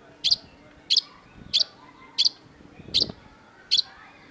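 Long-tailed shrike giving a string of short, sharp, high calls, six in a row at an even pace of about one and a half a second.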